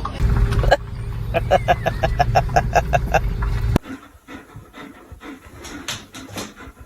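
A dog panting fast and rhythmically, about five pants a second, over a low steady rumble. About four seconds in the sound cuts off abruptly, leaving fainter, softer breathing sounds.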